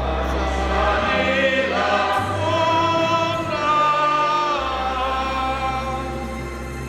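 A congregation singing a hymn together in held, slow notes, over sustained low accompaniment notes that change every second or two.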